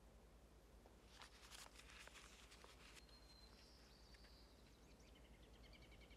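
Near silence: a faint rustle about a second in, then faint high bird chirps and a quick trilling call near the end.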